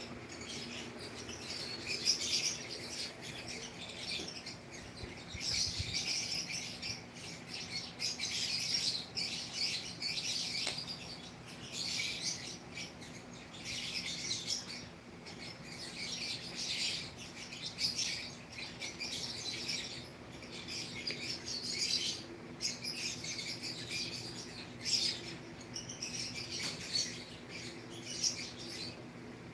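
Small birds chirping repeatedly in short, high calls, over a faint steady low hum.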